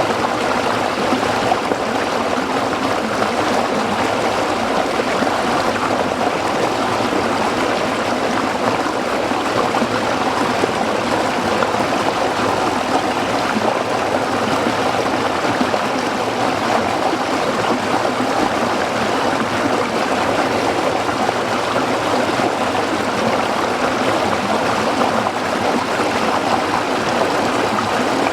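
Small stream of water flowing and trickling over rocks, a steady, even babble.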